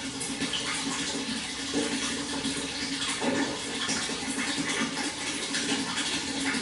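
Water flowing and splashing steadily, with small splashes flickering through a continuous rush.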